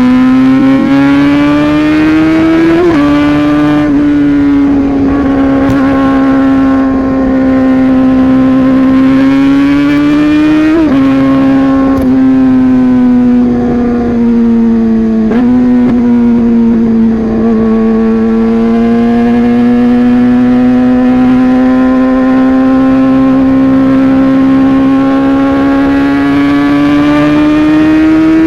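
Yamaha R15 V3's single-cylinder engine with a modified exhaust, the motorcycle being ridden under power. The engine note climbs slowly and drops sharply three times as it changes gear.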